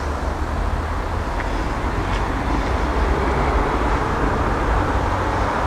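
Steady low rumble of vehicle noise with no distinct events, growing slightly louder.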